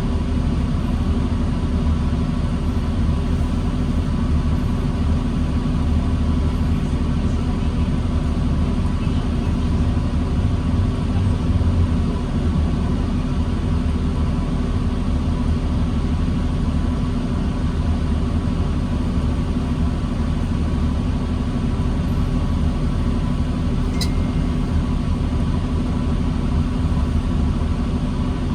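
The diesel engine of a New Flyer D40LFR bus running steadily in stop-and-go traffic, a constant low rumble with a faint steady hum above it. A single brief click comes near the end.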